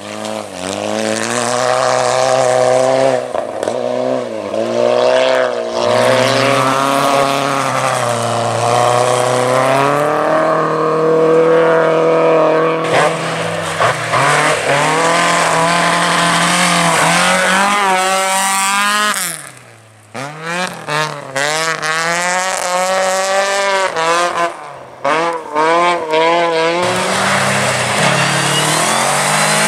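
Rally car engine revving hard, its pitch climbing and dropping back again and again as the car is driven flat out. About twenty seconds in the sound drops away for a moment, then cuts in and out several times with the throttle before running steadily again.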